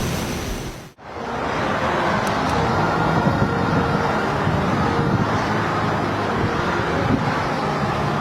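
Steady engine noise from aircraft in flight, with a few faint held tones in it. The sound drops out briefly about a second in, then the same steady noise returns.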